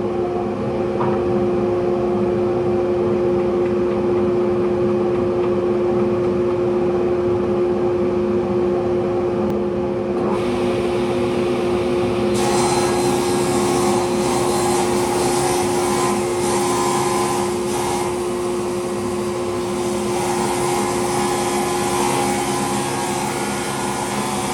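Workshop power tools running: a steady motor hum, with the noise of a tool working wood joining about ten seconds in and growing louder about two seconds later.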